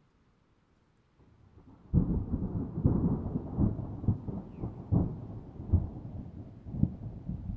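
Thunder: after a second or so of near silence, a low rumble builds and breaks into a loud crackling thunderclap about two seconds in. It keeps rolling with repeated cracks.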